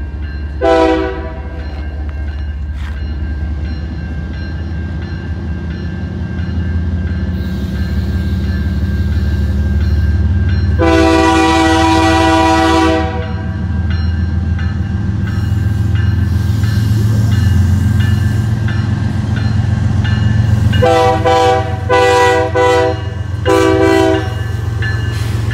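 Canadian Pacific diesel freight locomotive approaching and passing close by, its engine rumble building. Its horn sounds for the road crossing: a short blast about a second in, a long blast of about two seconds midway, and a cluster of short blasts near the end as the locomotive goes by.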